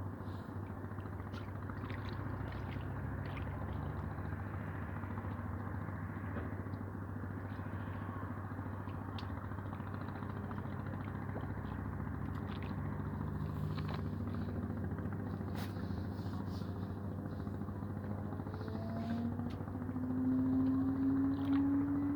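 A motor engine running steadily over a constant rushing noise. About twenty seconds in, its pitch rises and it gets louder.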